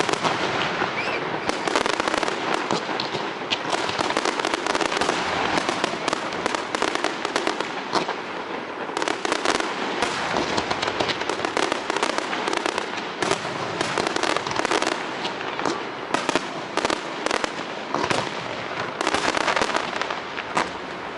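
Fireworks going off in rapid succession, a dense, continuous crackle of many overlapping pops and bangs with no break.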